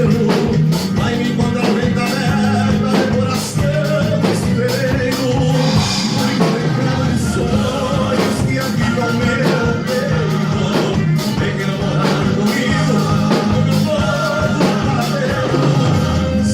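A band playing an upbeat rock-and-roll song, with a steady drum beat and a running bass line.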